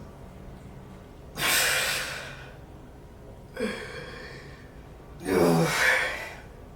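A man breathing hard from weight-lifting exertion: three heavy, breathy exhales or gasps about two seconds apart, the last and loudest turning into a voiced groan.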